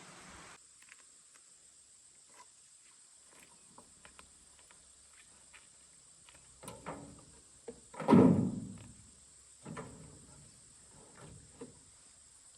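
A few light clicks and knocks, then several dull thumps, the loudest about eight seconds in.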